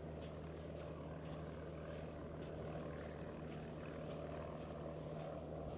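Steady drone of a light single-engine propeller aircraft, a Cessna, holding one even pitch.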